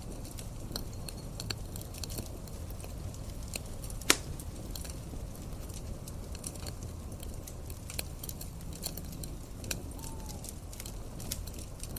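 Campfire crackling, with scattered small pops and one sharp, much louder pop about four seconds in, over a steady low rumble.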